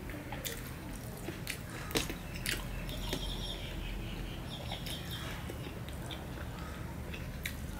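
Close-up mouth sounds of a person chewing food, with a scattering of short, sharp wet clicks and smacks, mostly in the first few seconds. Fingers mix rice on a steel plate between mouthfuls.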